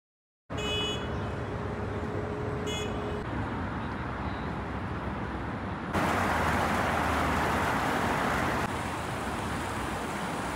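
Steady city traffic noise, with two short high beeps about one and three seconds in. The noise grows louder for a few seconds past the middle.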